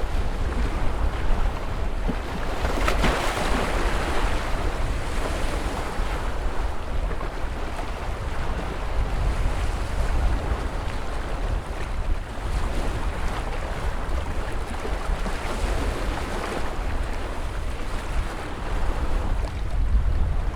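Ocean surf: waves breaking and washing in, swelling in slow surges with the biggest about three seconds in, over a steady low wind rumble.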